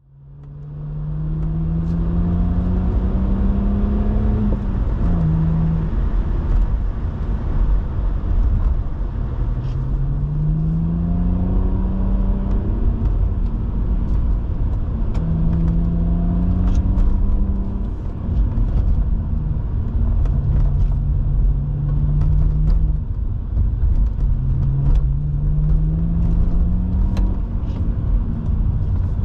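BMW 130i's 3.0-litre inline-six heard from inside the car, pulling up through the revs and dropping in pitch at each upshift, with stretches of steady cruising between. Road rumble runs underneath, with light scattered ticks and clicks.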